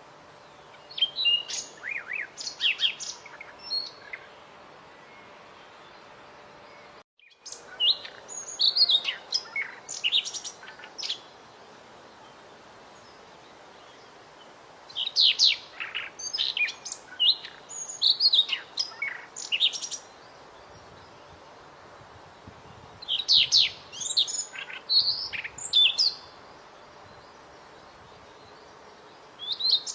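Small songbird singing in bursts of rapid, high chirps and trills, a few seconds each, separated by pauses of several seconds, over a steady background hiss.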